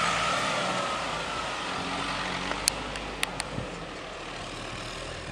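Renault Duster 4x4's 2.0-litre petrol engine running at low revs as the SUV crawls slowly over loose, rutted dirt, fading gradually as it moves away. A few sharp clicks about halfway through.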